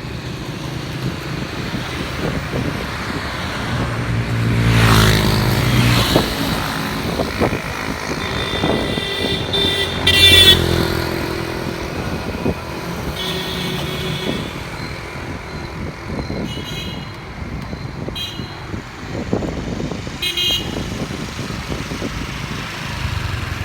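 Street traffic: engines of passing vehicles running, with one loud vehicle passing about five seconds in, and several horn toots scattered through, the loudest about ten seconds in.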